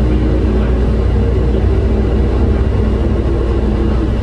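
Airport people-mover train running, heard from inside the car: a steady, loud rumble with a low motor hum.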